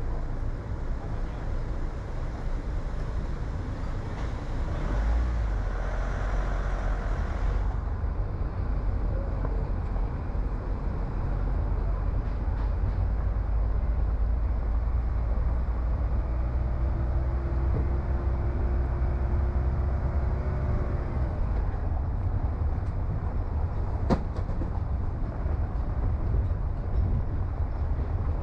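Car driving on town roads: a steady low rumble of engine and tyre noise, with a single sharp click late on.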